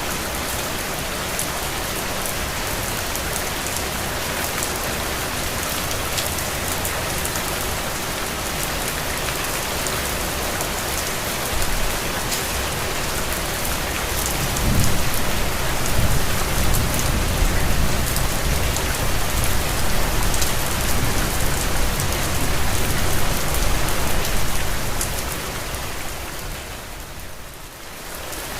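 Steady rain falling, with individual drops ticking. About halfway through a low rumble rises underneath and fades away near the end.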